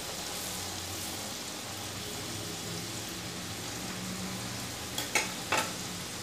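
Flour-coated okra strips deep-frying in hot oil in a metal kadai, a steady sizzle as they are stirred with a slotted spatula. A little after five seconds in, two sharp knocks about half a second apart, as of the spatula striking the pan.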